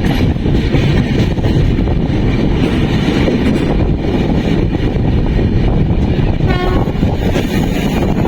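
Passenger train running on the rails with a loud, steady rumble. A brief tone sounds about two-thirds of the way through.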